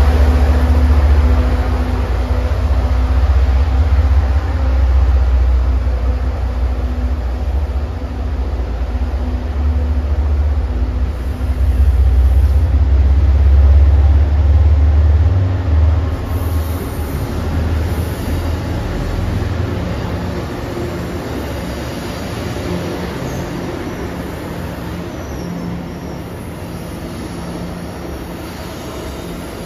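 MBTA commuter train passing close. A deep diesel-locomotive engine rumble dominates for roughly the first half. From about 16 seconds in, the sound steadily fades as the train pulls away.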